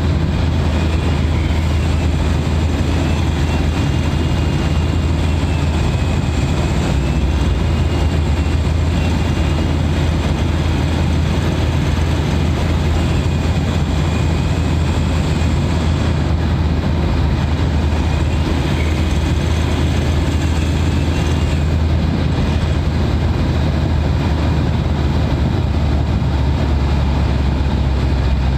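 Mitsubishi Pajero Sport's turbodiesel engine, heard from inside the engine bay, running steadily at highway cruising speed with a deep, even drone. A faint wavering turbo whistle sits above it and fades out about two-thirds of the way through.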